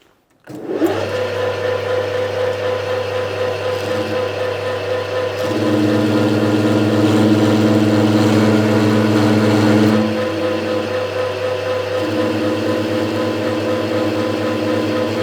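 Mains-powered machine, most likely the electric welder, starting up and humming steadily. It grows louder from about five to ten seconds in.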